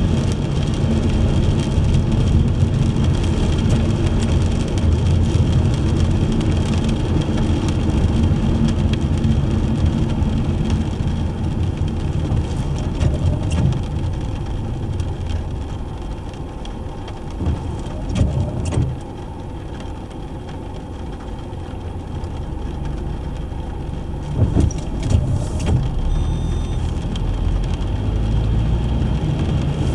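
Car driving on rain-wet roads, with a steady rumble of engine and tyres. It quiets for several seconds past the middle, then builds again. A few short knocks come about 18 seconds in and again around 25 seconds.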